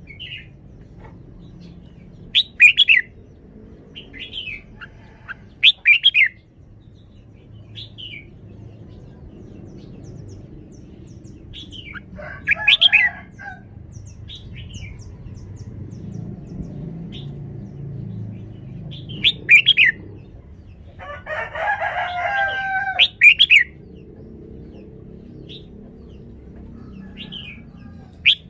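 Red-whiskered bulbul singing short, bright whistled phrases every few seconds. Twice, about midway and again near two-thirds through, a rooster crows in the background.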